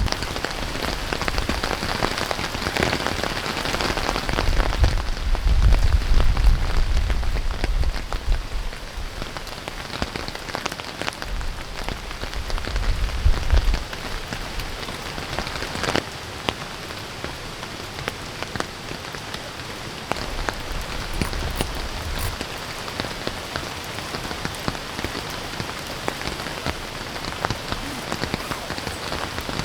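Heavy rain falling steadily, with scattered drops ticking on nearby surfaces. Gusts of wind buffet the microphone as low rumbling surges during roughly the first half, then the rain goes on alone.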